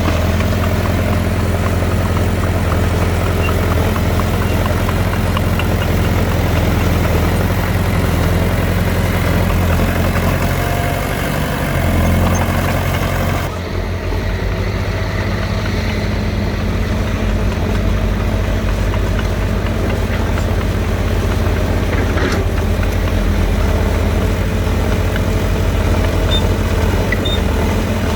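Diesel engines of heavy earthmoving machinery running steadily with a deep, even drone. About halfway through the sound changes abruptly, as at a cut to another shot, but the engine drone carries on.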